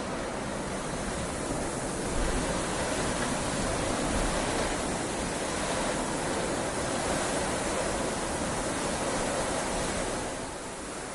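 Heavy rain falling steadily, an even hiss that swells a little after about two seconds and eases off near the end.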